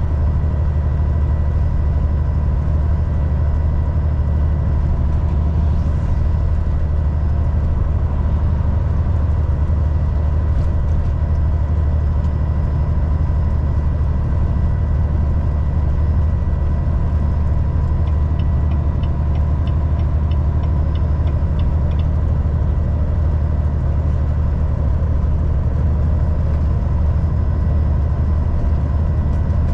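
Volvo VNL 760 semi truck cruising on the highway, heard from inside the cab: a steady low engine and road drone with a faint steady whine. About two-thirds of the way through, a quick run of light ticks, about four a second, lasts some four seconds.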